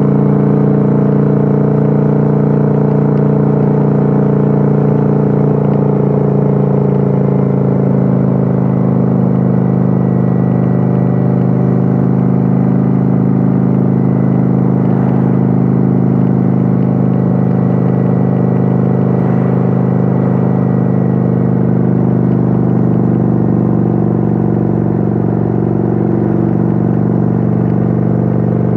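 Kawasaki Vulcan 900's V-twin engine running steadily at cruising speed, heard from on board the motorcycle. The engine note shifts slightly about eight seconds in, then holds steady.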